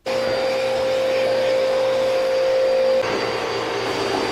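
Electric motor running steadily with a high whine; about three seconds in, the pitch and the level drop slightly.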